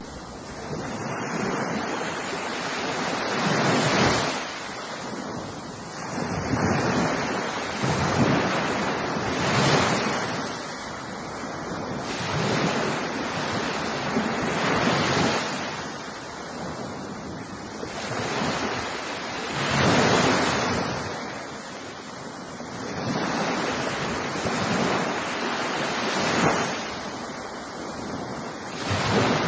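Ocean surf breaking on a beach: a steady wash of noise that swells as each wave breaks and eases as it draws back, every few seconds.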